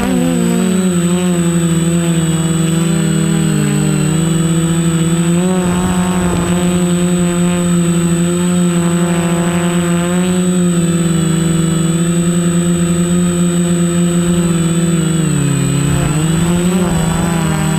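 Quadcopter motors and propellers running in flight, a buzzing whine whose pitch wavers up and down with the throttle, dipping about fifteen seconds in and then climbing back. A thin, steady high-pitched whine sits above it.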